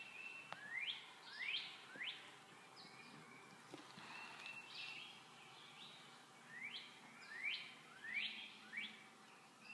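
A wild songbird calling: short notes that sweep up in pitch, faint, in a run of three, then after a pause a run of four.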